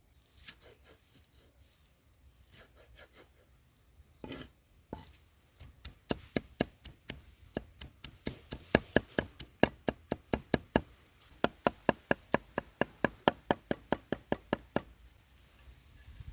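Knife chopping food on a board: a few scattered knocks, then a fast, even run of chops at about four to five strokes a second, with a brief pause midway. The chopping stops near the end.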